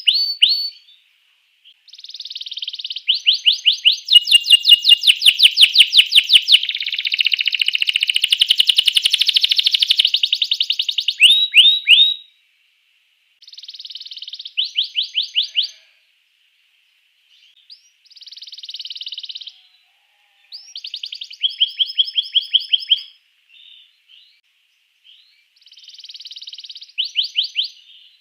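Canary singing: a long run of rapid trills and repeated high notes, then shorter trill phrases broken by pauses of a second or two.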